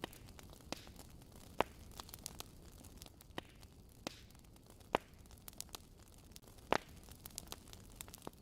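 Wood fire crackling: irregular sharp pops and snaps over a low steady hiss, with a few louder pops standing out.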